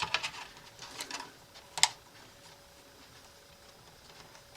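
Light clicks of a plastic cable tie being pulled tight around a bundle of wires: a few small clicks in the first second and a sharper click just before two seconds in.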